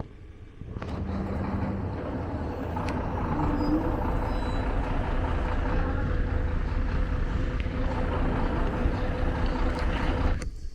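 A motor vehicle's engine running nearby: a low, steady rumble that builds over the first few seconds and then holds steady.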